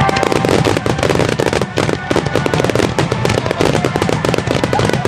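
Fireworks finale barrage: many shells bursting in quick succession, a dense run of bangs and crackling with no let-up.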